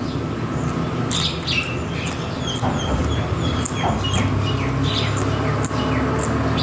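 Small birds chirping over and over, short quick calls, over a low steady hum.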